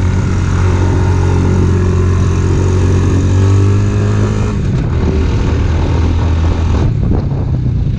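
Off-road vehicle engine running at a steady speed, its pitch falling about four and a half seconds in as it slows, then running rougher near the end.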